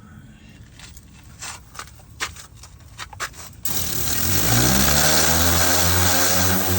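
A few light clicks, then an electric pressure washer starts abruptly about three and a half seconds in. Its motor spins up in pitch within a second and runs steadily under a loud hiss of spray.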